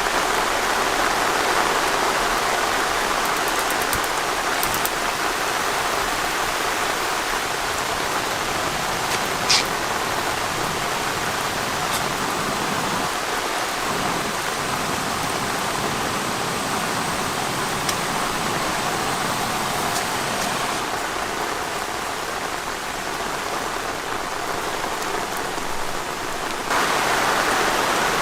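Steady rain falling on a surface, an even hiss with occasional sharper drop taps, the clearest about nine and a half seconds in. The level steps up a little, suddenly, near the end.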